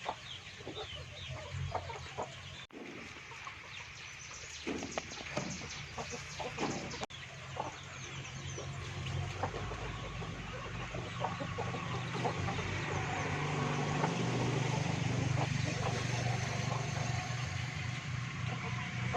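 Chickens clucking in short, scattered calls. From about halfway, a steady low motor hum builds and grows louder toward the end.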